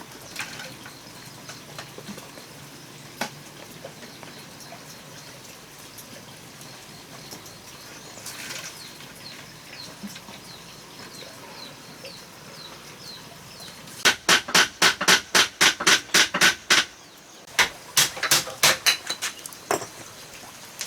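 Faint bird chirps, then near the end two quick runs of loud, sharp knocks, about five a second, with a short break between them.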